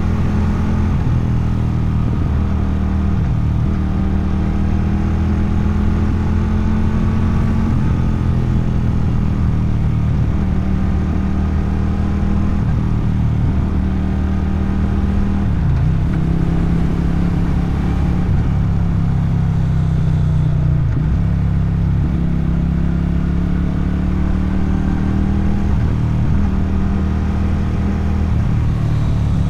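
Motorcycle engine and exhaust under way, a steady note with brief dips and recoveries in pitch about halfway and two-thirds through, as the rider shifts gears.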